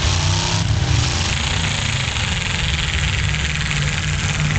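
Engines of full-size demolition derby trucks running together: a steady low drone under a wide haze of noise.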